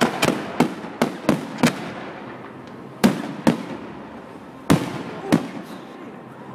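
Fireworks display: about ten sharp shell bursts in uneven clusters, a rapid run of six in the first two seconds, then pairs about three and five seconds in, each bang trailing off in a fading rumble.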